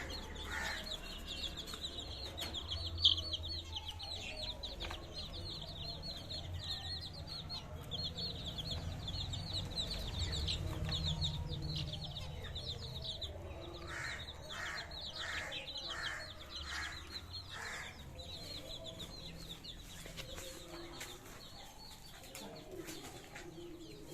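A flock of caged lovebirds and finches chattering, with many quick, high chirps overlapping. About two-thirds of the way through comes a run of about six louder, lower calls.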